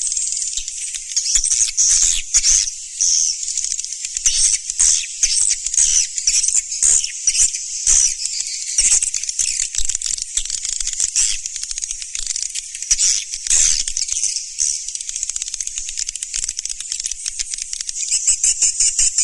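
Swiftlets twittering: a dense, unbroken stream of high, rapid chirps from many birds at once, the kind of swiftlet call recording played to lure the birds into a nesting house.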